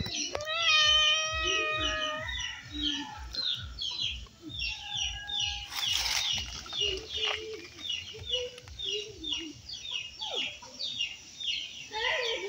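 Small birds chirping rapidly and without a break, with a long, steady-pitched animal call over the first two seconds and lower wavering cries through the middle.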